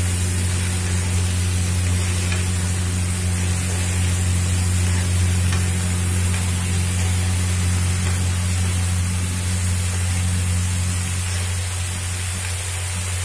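Diced potatoes frying in an iron kadhai with a steady sizzling hiss as a steel spoon stirs them, over a steady low hum.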